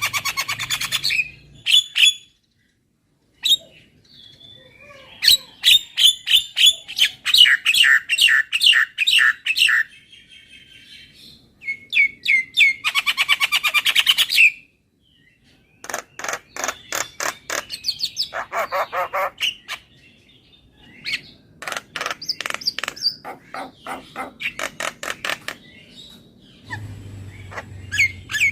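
Javan myna (jalak kebo) singing in phrases of a few seconds each, fast runs of sharp, rattling and chattering notes with short breaks between them.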